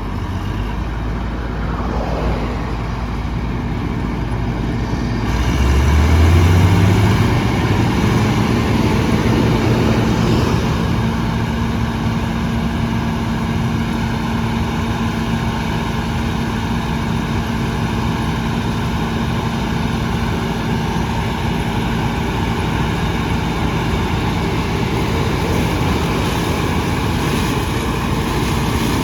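John Deere 6600 combine running. About five seconds in its pitch rises and settles into a steady, higher hum as the machine comes up to speed.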